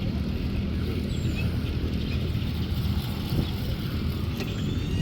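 Steady low rumble of riding along on a bicycle: wind on the microphone and road noise.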